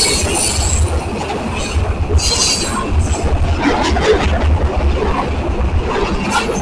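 Freight train of covered hopper cars rolling past close by: a steady, pulsing rumble of steel wheels on the rails, with brief high-pitched wheel screeches, the loudest about two seconds in.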